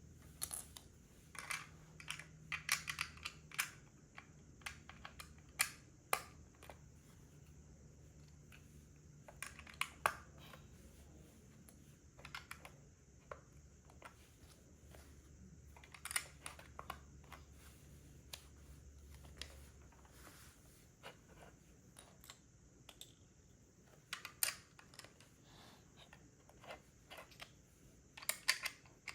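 Plastic LEGO bricks clicking and tapping as they are handled and pressed together, in irregular clusters of sharp clicks.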